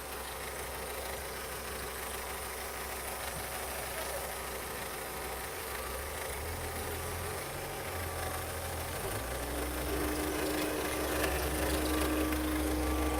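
Opel Astra H 1.4 litre Z14XEP four-cylinder petrol engine running at idle for an engine test. Its steady hum shifts a little about halfway through, and a thin whine comes and goes in the last few seconds.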